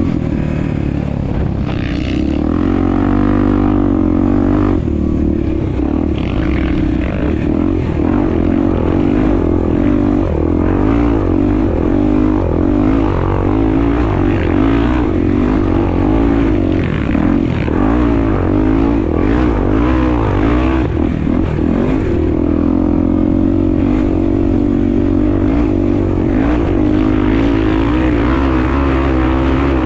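Honda XR250 Tornado's single-cylinder four-stroke engine running while ridden, its revs rising and falling over and over through the middle as the throttle is worked, steadier at the start and near the end.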